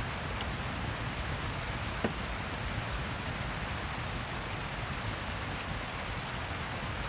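Rain-and-fireplace ambience: steady rain, with scattered small clicks and one sharper snap about two seconds in.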